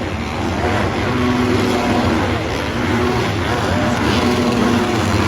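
Motocross dirt bike engines revving, their pitch rising and falling over dense, steady noise.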